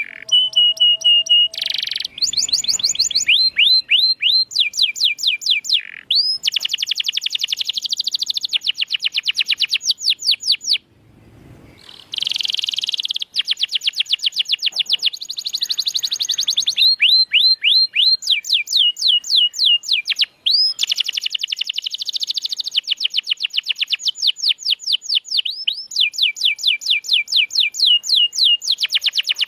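Domestic canary singing: long, fast trills of rapidly repeated high sweeping notes, with a short steady whistle near the start and a brief break about eleven seconds in.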